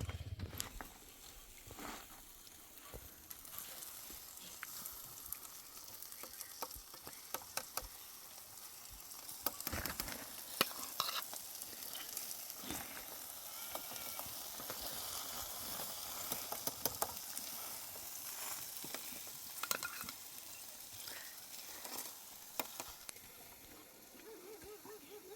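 Food sizzling as it fries in a pan, with a utensil stirring it and clicking against the pan now and then.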